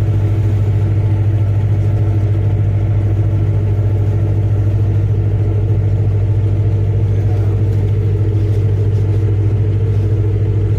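Ferry's diesel engine running with a steady low drone, heard on board.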